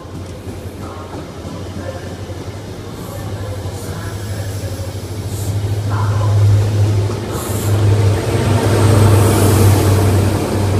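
InterCity 125 High Speed Train passing at speed: the coaches roll by with a steady low rumble of wheels on the rails. The rear Class 43 power car's diesel engine comes up about six seconds in and is loudest near the end.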